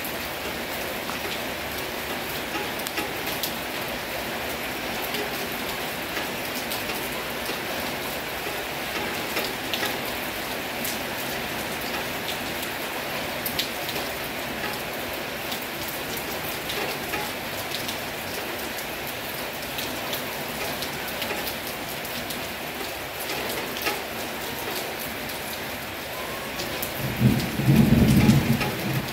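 Heavy rain pouring steadily, with many sharp individual drop hits through the downpour. Near the end a loud low rumble of thunder rises over the rain for about two seconds.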